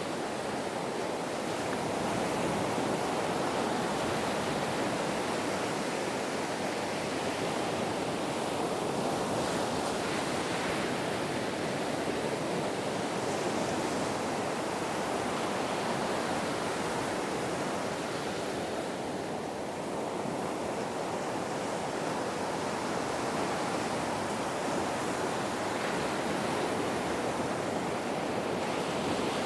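Ocean waves: a continuous rush of surf that swells and eases only slightly, with a brief lull a little past the middle.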